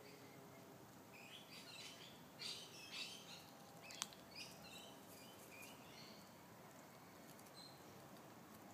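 Faint, scattered bird chirps and calls, several short ones in the first half, with a single sharp click about four seconds in.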